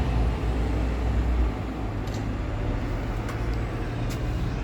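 A bus engine running close by: a steady low rumble that eases a little about a second and a half in.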